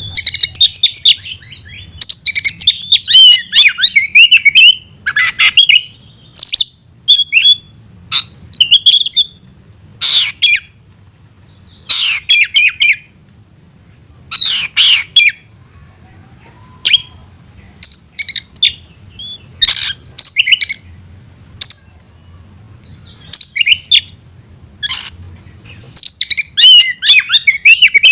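Oriental magpie-robin (kacer) singing hard: loud phrases of rapid chirps and sliding whistles, each a second or two long, separated by short pauses.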